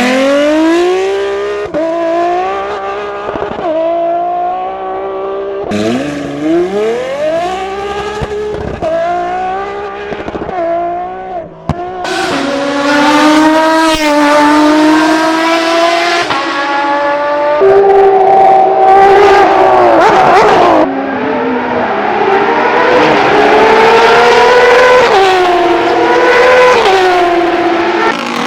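Sports car engines revving hard through the gears, in a string of separate clips. Each run climbs in pitch and drops back at the shifts.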